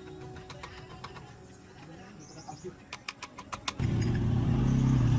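A quick run of sharp clicks, then an engine starts abruptly about four seconds in and runs loudly and steadily with a low hum.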